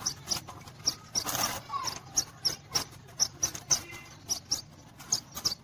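Small birds chirping: short high peeps repeating about three times a second.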